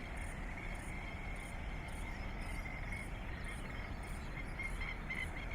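Insects chirping in a high, even pulse about twice a second, with a fainter uneven chirping higher up, over a steady low background rush.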